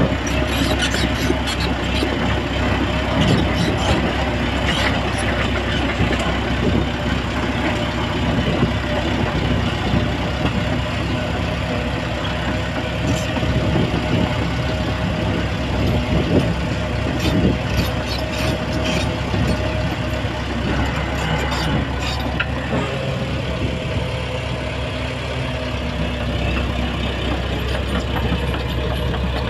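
Shantui crawler bulldozer's diesel engine running steadily while it works, with scattered sharp clanks and knocks over the engine sound.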